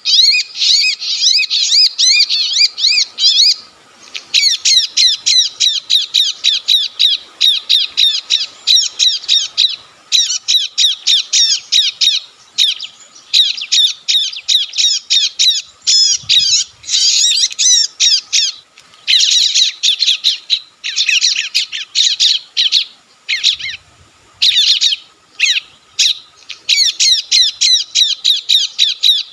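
Bar-winged prinia (ciblek) calls: fast runs of sharp, descending chattering notes in steady bursts with short breaks, loud and without let-up. This is the trapper's lure call of a distressed ciblek, played through a speaker to draw in wild birds.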